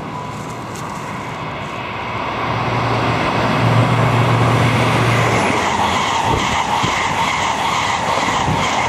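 First Great Western diesel train passing at speed: the rush of its wheels on the rails grows louder from about two seconds in and stays loud as the carriages go by, with a low steady engine hum as the front of the train passes.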